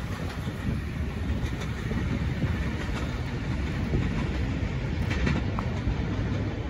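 Kiha 183 diesel multiple unit running along the track: a steady low rumble of the train with the odd faint click of wheels on the rails.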